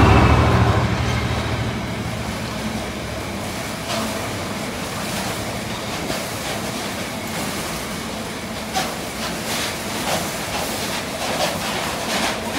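Two Class 66 diesel locomotives with EMD two-stroke engines pass loudly, their low engine rumble fading over the first two to three seconds. The rail-carrying freight wagons behind them roll steadily past with irregular clickety-clack wheel clicks.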